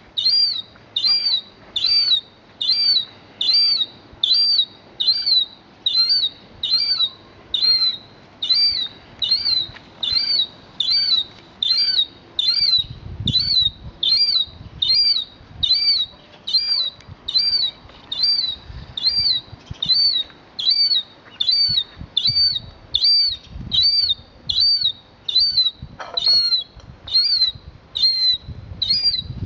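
A bird calling over and over: a short high-pitched note that rises and falls, repeated evenly a little more than once a second. A low rumble joins about halfway through.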